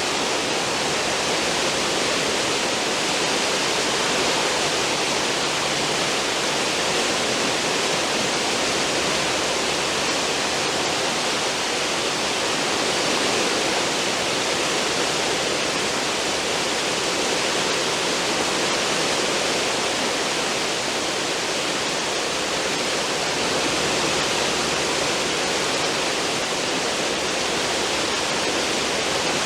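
Cruise ship's stern wake: churning, foaming water rushing steadily behind the hull, an unbroken roar of white water with no distinct wave breaks.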